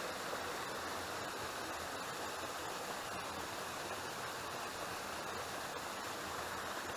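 Steady rush of a waterfall, with no breaks or distinct events.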